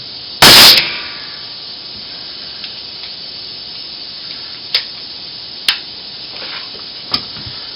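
DeWalt D51256K pneumatic nail gun firing a nail once, about half a second in: a sharp, loud shot of air and impact with a short tail, the gun freshly fitted with a new trigger and set to its deepest drive depth. A few light clicks follow later.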